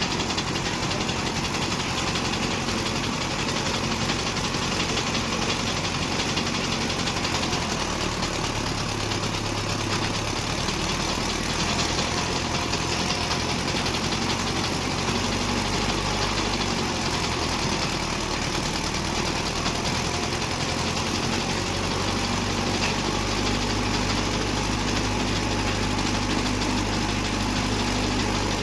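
Tractor diesel engine running steadily, driving a post hole digger; its low hum grows stronger about ten seconds in and again past the middle.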